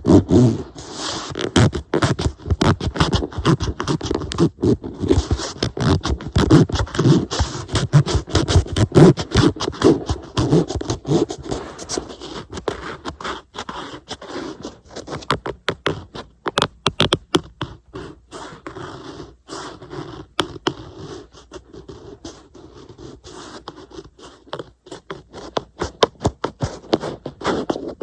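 Fingernails scratching and tapping on an iPad's glass screen and case, in quick irregular strokes, busier in the first half.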